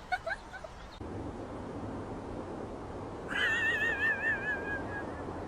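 A cat's single high, wavering meow, its pitch wobbling rapidly, lasting about a second and a half and starting about three seconds in.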